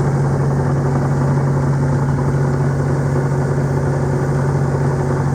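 A sailing yacht's inboard engine running steadily under way, a constant low hum with an even pitch.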